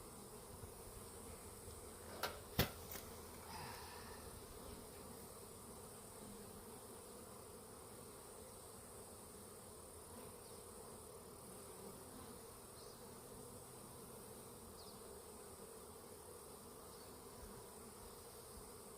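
Honeybees buzzing steadily from a colony disturbed after its hive tipped over and rolled down a hill. Two or three sharp knocks come about two and a half seconds in.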